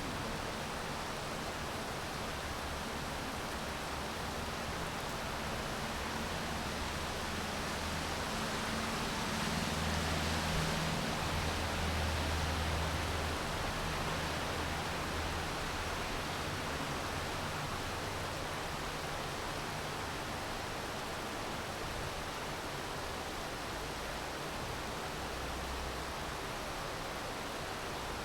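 Steady rain falling, an even hiss. A low rumble swells and fades from about eight to fourteen seconds in.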